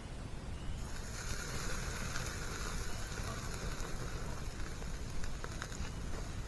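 Hamburger and sausages sizzling on a grate over a campfire, the hiss starting abruptly about a second in as the meat goes on, with a few faint pops.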